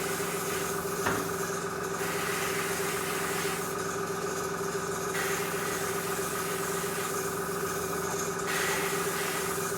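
An airbrush compressor runs with a steady hum while the airbrush hisses on and off a few times as paint is sprayed in short passes. A small click comes about a second in.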